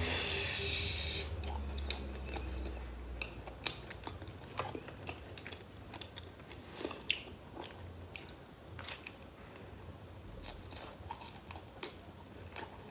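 A person biting into a slice of cheese-and-pineapple pizza, with a dense crunch of the bite in about the first second, then chewing, with many short clicks scattered through the chewing.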